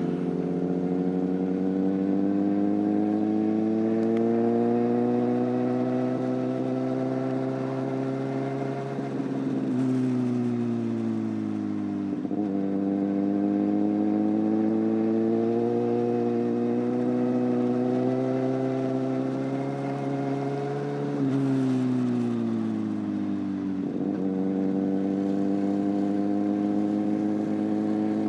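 Motorcycle engine under way: its pitch climbs slowly as it pulls, falls away sharply about ten and twelve seconds in and again around twenty-one to twenty-four seconds, then climbs again each time.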